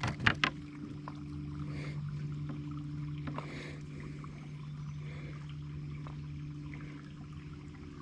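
Fishing kayak sitting on the water: light water trickling against the hull under a steady low hum, with a few clicks at the very start.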